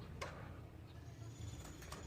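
Faint calls of a platuk beras woodpecker: one short, sharp call note about a quarter second in, then a thin high note in the second half, over a low hum.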